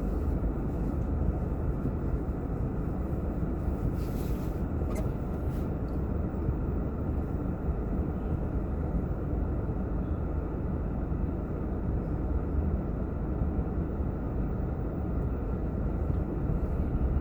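Steady low rumble of road and engine noise inside a car's cabin while driving, with a couple of faint ticks about four to five seconds in.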